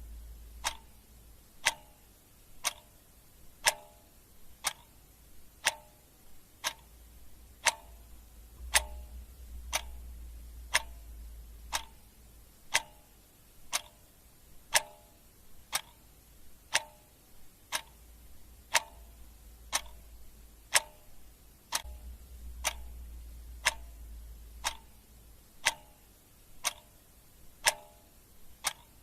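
Clock ticking sound effect: a steady tick-tock of sharp ticks about once a second, alternate ticks a little louder.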